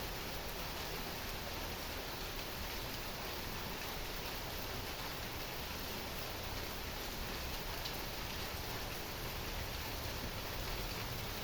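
Heavy rain falling steadily, an even hiss of rain with faint scattered drop ticks.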